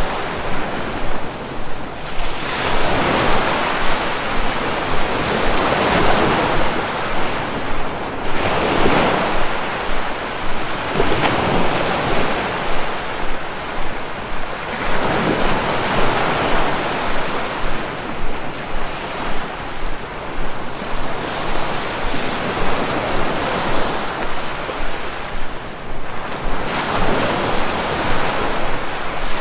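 Sea waves washing in, the surf swelling and falling back every few seconds.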